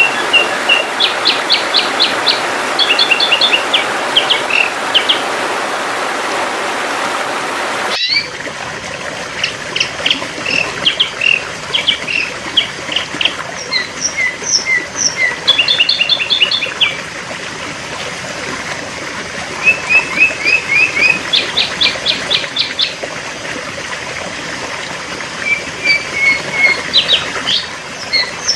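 Sooty-headed bulbul (kutilang) calling in repeated short chirping phrases, a lure (pikat) call for drawing in wild bulbuls. About eight seconds in, a hiss behind the calls cuts off suddenly and the calls carry on cleaner.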